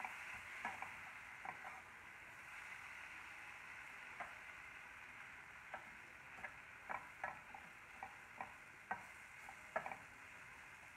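Dry fish, tomato and onion fry sizzling in a pan while a perforated metal spatula stirs it. The spatula scrapes and clicks against the pan irregularly, more often in the second half.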